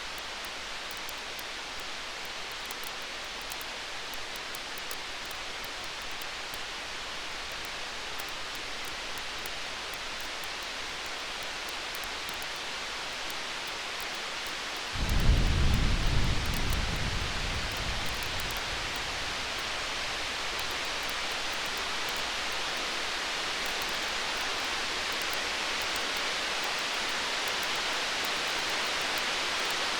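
Campfire crackling faintly over a steady hiss, with a low roll of distant thunder about halfway through that swells and fades over about three seconds.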